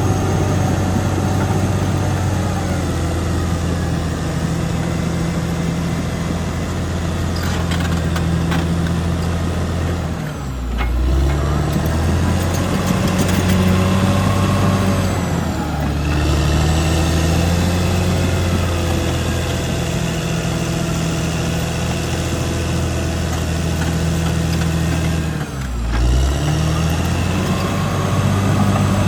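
Caterpillar D6R XL bulldozer's diesel engine running steadily under load. Its pitch drops sharply twice, about ten seconds in and again near the end, then picks back up.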